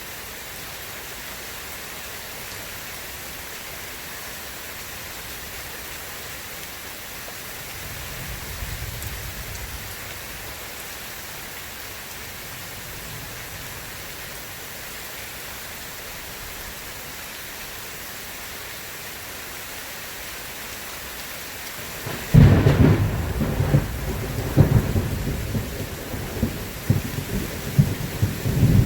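Steady rain falling, with a faint low roll of distant thunder about a third of the way in. Near the end a sudden loud thunderclap breaks in and rolls on in several heavy rumbles over the rain.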